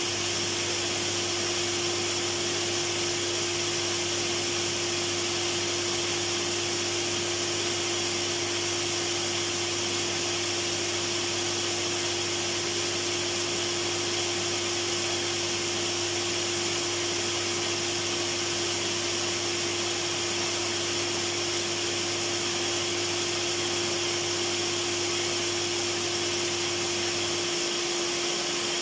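Vacuum cleaner running steadily: an even whooshing air noise over a constant motor hum, with a deeper hum that drops out near the end.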